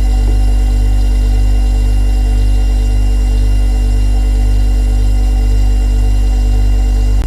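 Refrigerator running with a loud, steady low hum and a slight regular throb.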